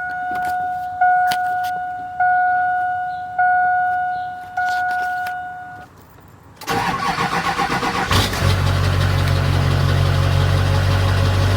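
A dashboard warning chime dings about every second and a quarter, five times. About 6.7 s in, the dually pickup's starter cranks and the engine catches about a second and a half later, settling into a steady idle on a cold start.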